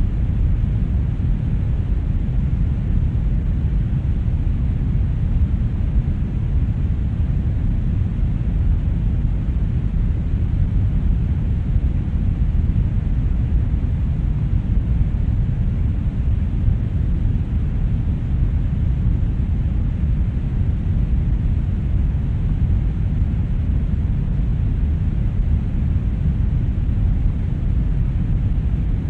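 Brown noise: a steady, deep rushing hiss heavy in the low end and falling away toward the highs, unchanging throughout.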